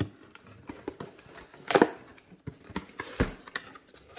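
A cardboard tool box being handled and opened: scattered knocks and scrapes, with a louder rustle of cardboard about two seconds in and a dull thud a little after three seconds.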